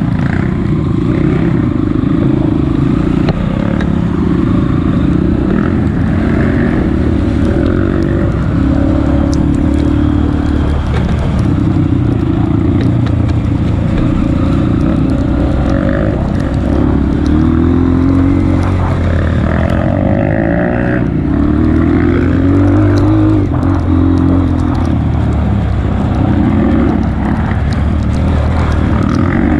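Honda CRF230F trail bike's single-cylinder four-stroke engine running under load, its revs rising and falling every second or two as the rider works the throttle.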